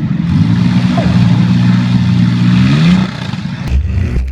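Demolition derby cars' engines running hard at an even pitch, then revving up about three seconds in. Near the end this gives way to a lower rumble with a few sharp knocks.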